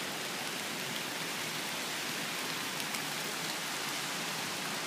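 Steady hurricane rain falling, an even hiss with a few faint drop ticks.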